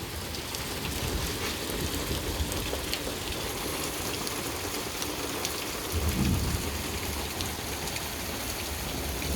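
Steady rain falling, an even hiss with scattered sharp drop ticks, some of them drops landing on the phone. A brief low rumble rises and fades about six seconds in.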